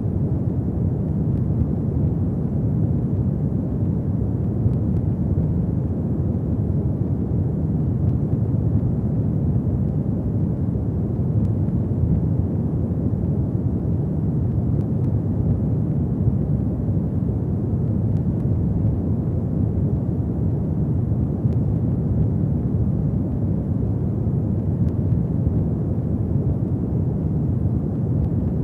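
Fireplace fire burning: a steady low rumble of flames with a few faint crackles.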